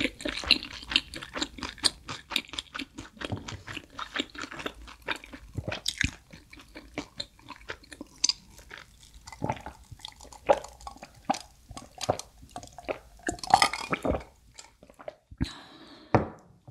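Close-miked chewing of pizza, with many wet mouth clicks and crunching. Partway through come a few sips and swallows from a glass of iced soft drink.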